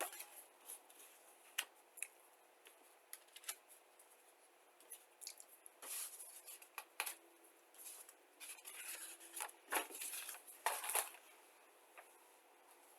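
Paper rustling and handling noise: a model kit's instruction sheet being folded and put away with the kit contents. It comes as scattered short rustles and small clicks, busiest about six seconds in and again for a couple of seconds near ten seconds.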